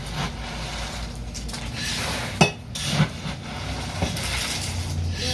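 Handling and scraping sounds, with two sharp knocks about two and a half and three seconds in.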